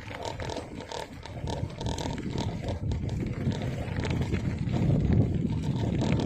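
Wind buffeting the microphone of a moving bicycle: a low, rumbling noise that grows louder toward the end, with faint clicks above it.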